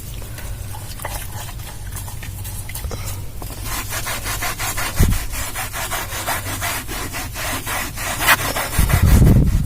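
Wet towel scrubbing a fabric car seat in rapid back-and-forth strokes, louder from about three seconds in. A low thump comes about halfway through and a louder one near the end.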